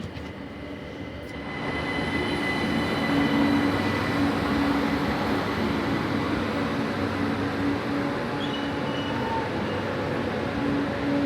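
Electric train running, its rumble growing louder about a second and a half in and then holding steady, with a steady hum and a high whine from the drive.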